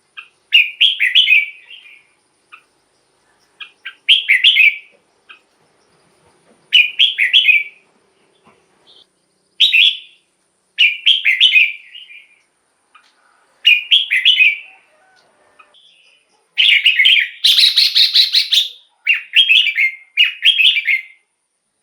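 Red-whiskered bulbul singing: short, loud warbled phrases of about a second each, repeated every two to three seconds, with a longer, fuller burst of song about three-quarters of the way through.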